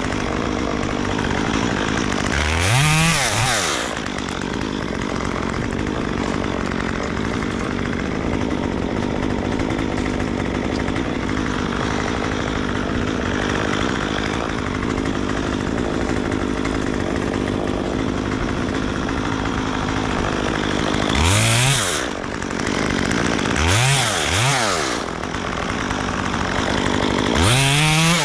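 Chainsaw engine running steadily, revved up and let back down in short blips: once near the start and four times near the end, two of those in quick succession.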